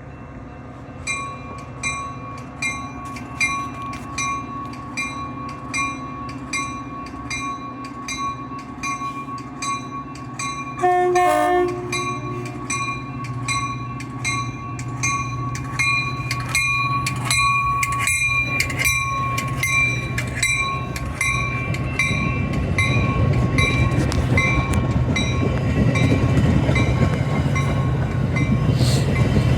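Grade crossing bells ringing steadily, about two strikes a second. A short train horn sounds about eleven seconds in. An approaching train's rumble grows louder toward the end.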